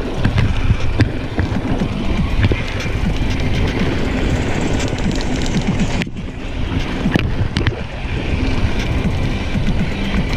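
Mountain bike rolling fast down a rocky dirt trail: tyres rumbling and rattling over the ground, with many small clicks and knocks from the bike, and wind on the microphone. The noise eases briefly about six seconds in.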